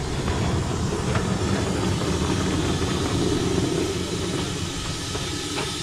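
Narrow-gauge train running on the track: a steady low rumble that swells in the middle and eases a little near the end.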